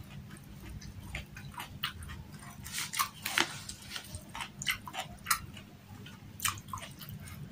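Close-up mouth sounds of someone eating by hand: chewing and lip smacks in short, irregular clicks, busiest a few seconds in, over a steady low hum.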